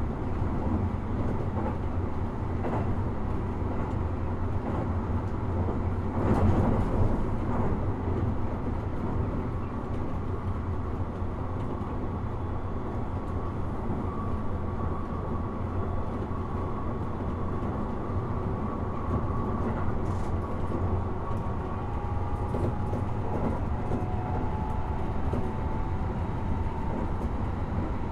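Running sound of a Toei 5500 series electric train at speed, heard from inside the car: a steady low rumble of wheels on rail. The rumble swells louder for about a second, six to seven seconds in, and a faint whine rises slowly in pitch near the end.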